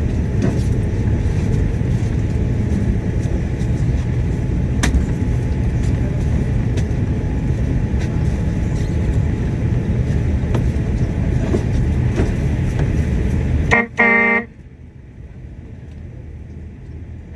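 Steady, loud low rumble of a motor vehicle's engine and road noise, which cuts off abruptly near the end. A short horn toot sounds right at the cut, then only a much quieter background remains.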